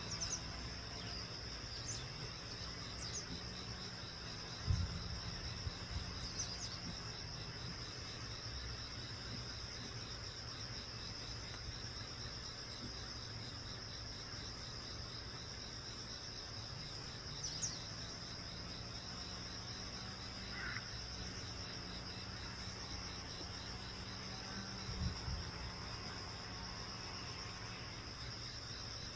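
Insect, cricket-like, trilling steadily and high-pitched, with a few short faint chirps over it.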